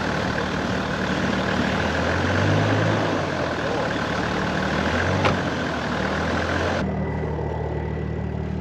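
A 4WD's engine idling steadily under a broad hiss. The engine swells briefly about two and a half seconds in, and there is a single sharp click a little after five seconds.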